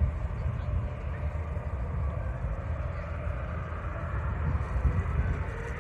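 Jet airliner's engines rumbling steadily as it passes, with faint whining tones over a deep rumble.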